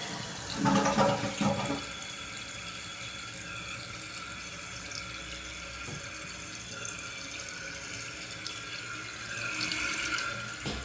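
2019 Kohler Wellworth toilet at the tail of a flush, with louder rushing water for the first two seconds. Then a steady hiss of the tank refilling through its fill valve, swelling slightly near the end.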